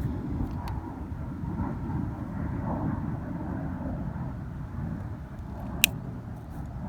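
Campfire crackling with a single sharp pop about six seconds in, over a steady low rumble like wind on the microphone.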